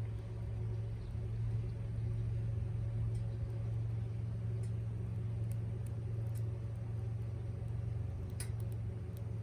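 A steady low hum, with a few faint sharp clicks over it, the clearest near the end.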